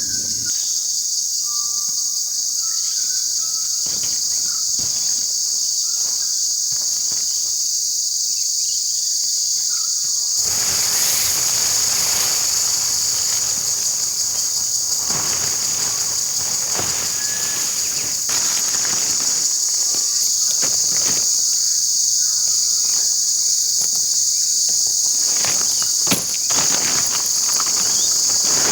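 A dense chorus of insects, crickets or cicadas, giving a steady high-pitched buzz. From about a third of the way in, rustling and scattered light knocks grow louder beneath it.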